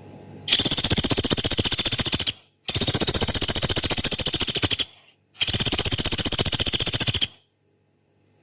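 Pelatuk beras, a small pygmy woodpecker, giving three long, harsh, rapid high-pitched trills of about two seconds each with short pauses between them.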